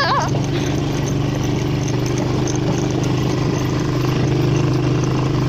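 ATV engine running at a steady pitch while being ridden.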